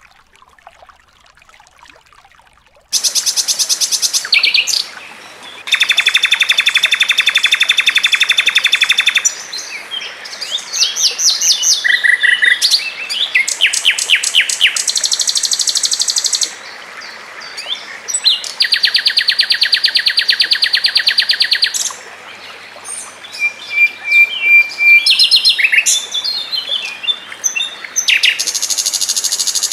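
Fast, dense songbird song from recordings of icterine warbler, flycatcher and canary: long, rapid trills of evenly repeated notes broken up by short, varied chirps and whistles. It starts about three seconds in after a faint stretch.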